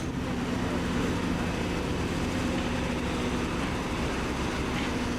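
Heavy diesel construction machinery running steadily, a constant engine hum.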